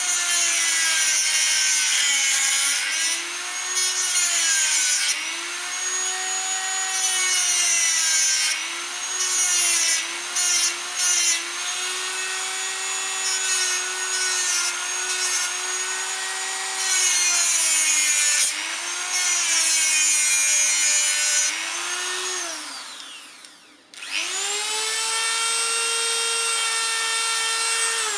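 Dremel rotary tool grinding the head off a motorcycle chain link rivet: a high motor whine with a gritty grinding rasp, its pitch dipping each time the bit bites into the steel and rising again as it eases off. Near the end it spins down to a stop, restarts and runs at a steady higher pitch, then begins to wind down.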